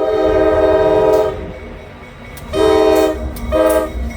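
Diesel locomotive air horn blowing for the crossing: one long blast, then two short blasts about a second apart, and another long blast starting near the end. Wind rumbles on the microphone underneath.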